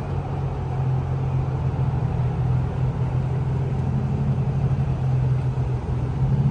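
A car engine idling close by, a steady low hum that holds an even pitch.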